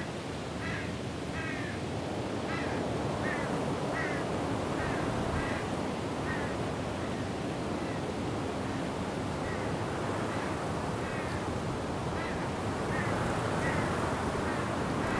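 Wind blowing steadily through forest trees, with a bird calling over and over in short calls, roughly one a second, with a gap of a few seconds midway.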